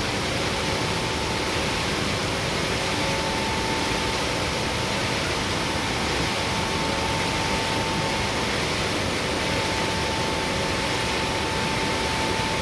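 Palm oil mill machinery, such as a screw press, running steadily: an even mechanical noise with a faint steady whine over it.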